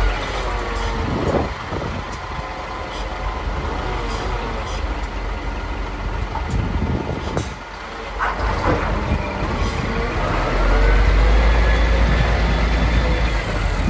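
Scania R420 tractor unit's diesel engine running, its pitch gliding up and down, with a few brief sharp noises about seven to eight seconds in. A heavier, louder low rumble sets in about ten seconds in.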